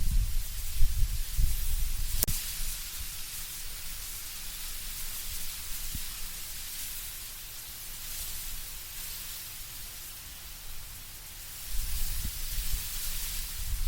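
Wind in autumn trees: a steady hiss of rustling leaves, with low rumbling gusts at the start and again near the end. There is a single sharp click a little after two seconds in.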